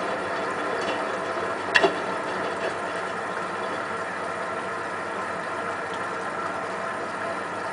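Hotpoint WT960 washing machine spinning its drum steadily in the final spin, the motor giving a level whine. A sharp double click about two seconds in.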